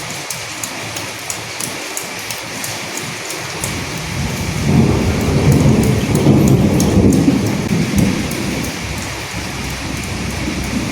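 Steady rain with sharp individual drops. About four seconds in, a low roll of thunder swells up and dies away again by about nine seconds.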